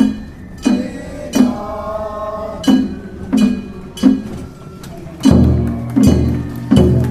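A boat song for a river-boat festival float: drum and metallic clinking strikes in a steady beat, about three every two seconds, with a held sung note about one and a half seconds in. The drum beats grow heavier and deeper near the end.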